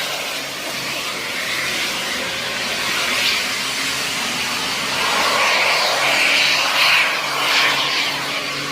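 Hino RK8 diesel bus running through a 'jet darat' modified exhaust: a steady, jet-like rushing whoosh over a low engine hum, swelling somewhat past the middle.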